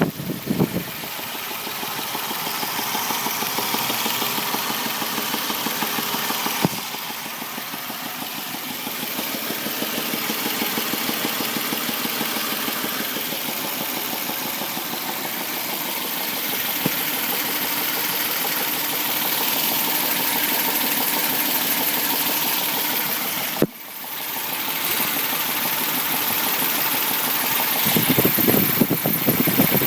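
Warm Suzuki H25A 2.5-litre V6 engine running at idle with a knock that persists even on thicker 10W-40 oil. Two sharp clicks cut through it, and it grows louder and rougher near the end.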